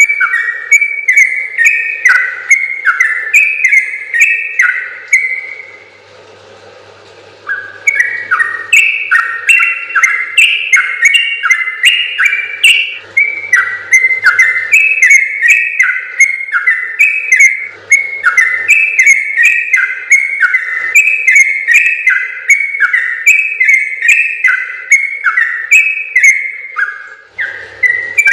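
Trucukan (yellow-vented bulbul) singing its long, rapid song: fast strings of bubbly, chirping notes run together without a break. The song stops about five seconds in and resumes about two seconds later.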